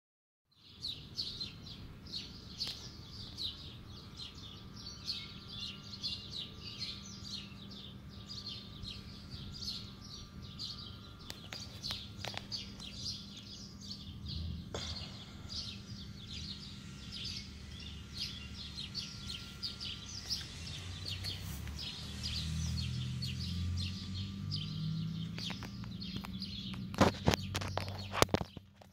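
Small birds chirping continuously, a dense run of short high chirps, over a steady low hum. A few sharp knocks sound near the end.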